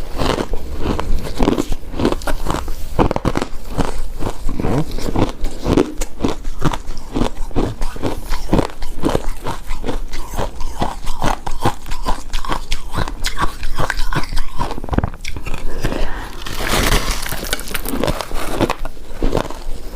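Close-miked chewing and crunching of shaved snow ice, a rapid run of small crisp crunches with mouth sounds.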